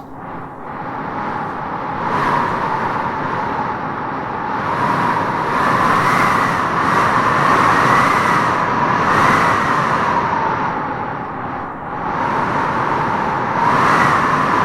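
Howling wind gusting through trees: a steady rush that swells and eases in waves, with a wavering whistling howl on top at its strongest, dipping briefly near the end before rising again.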